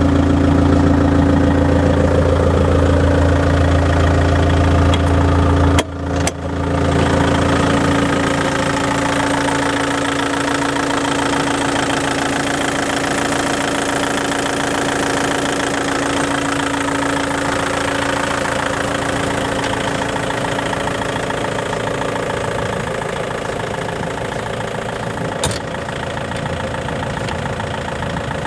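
Still RC40-35 diesel forklift engine idling steadily. About six seconds in the sound drops out briefly and resumes with less low hum and more clatter, easing off slightly over the last few seconds.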